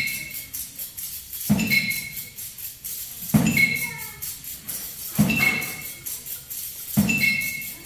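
Percussion ensemble playing a repeating groove: four accents, about one every two seconds, each a low drum hit with a bright metallic ring, over fast, steady high tapping.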